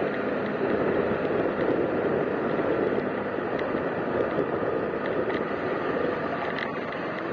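Steady rushing road noise of a vehicle travelling on a wet, muddy road, with a few faint ticks.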